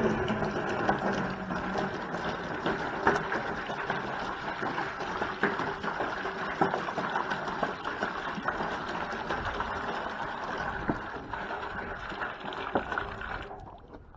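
Water pouring steadily into a container as it is filled for the animals, with small splashing ticks throughout; the flow starts suddenly and cuts off about 13 seconds in.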